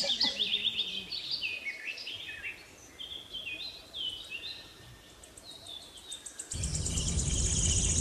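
Wild birds calling: a run of short chirping notes, several stepping down in pitch, thinning out after about four seconds. About six and a half seconds in, a louder steady rushing background with a rapid high ticking comes in.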